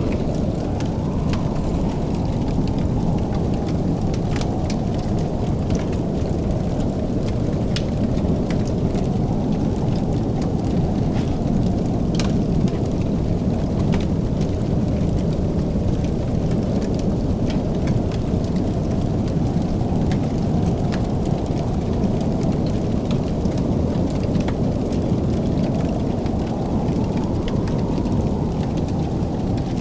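Fireplace crackling, with scattered sharp pops and snaps over a steady low rumble.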